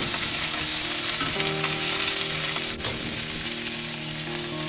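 Hard clams and garlic sizzling in a hot wok as they are stir-fried, with steady frying hiss throughout. Soft background music of held notes plays underneath.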